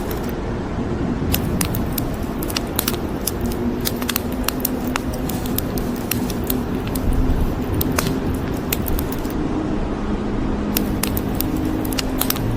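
Wood fire crackling with many irregular sharp pops and snaps, over a steady hiss of rain.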